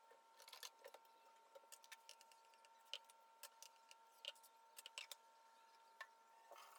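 Faint, scattered light clicks and taps, irregular and a few per second, over a steady faint hum.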